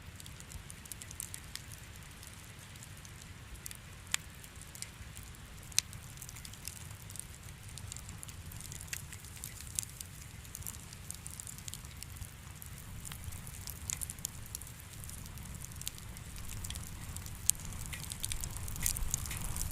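Fire in a fireplace crackling and popping over a low steady rumble. A few sharper pops stand out, and the crackling gets busier near the end.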